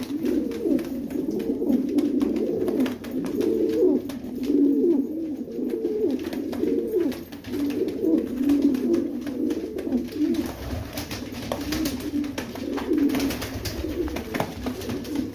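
Domestic pigeons cooing almost without pause in low, rolling coos that overlap one another, with faint ticks and taps mixed in.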